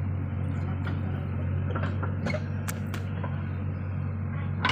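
Heavy machine's diesel engine running steadily with a low hum, with a few sharp clicks and knocks over it.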